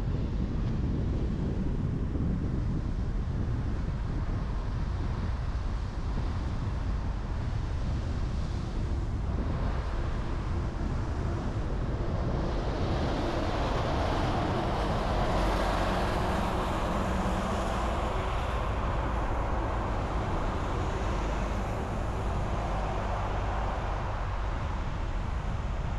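Car driving on a road: steady tyre and wind noise with a low rumble. It swells for several seconds partway through, then eases back.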